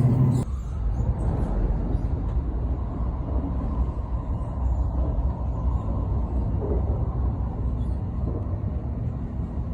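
Steady low running rumble of an N700S Shinkansen, heard inside the passenger cabin. A louder low hum drops away about half a second in.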